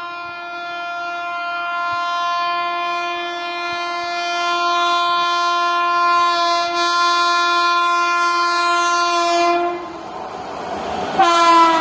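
Indian Railways locomotive horn of an express train passing through a station without stopping: one long steady blast of nearly ten seconds, then a short gap of rushing train noise, then the horn sounds again near the end, its pitch dropping as the train goes by.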